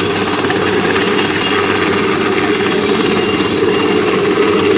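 Helicopter running close by: steady, rapid rotor noise with a constant high-pitched turbine whine.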